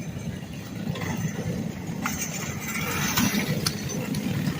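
Small racing engines of mowers or karts running at the track, a steady low rumble, with a few sharp clicks in the second half.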